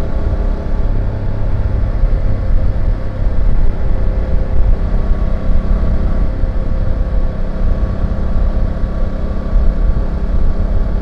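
BMW F850GS motorcycle's 853 cc parallel-twin engine and exhaust running at a steady pitch, cruising without revving up or down, over a heavy low rumble.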